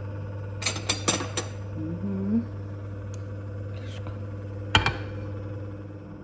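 Kitchen work noises over a steady low hum: a quick run of four sharp knocks and clinks, a short rising vocal-like sound about two seconds in, then one louder knock near the end.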